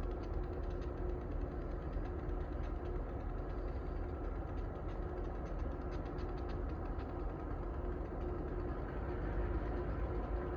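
Diesel locomotive engine running steadily: a low rumble with a constant hum over it.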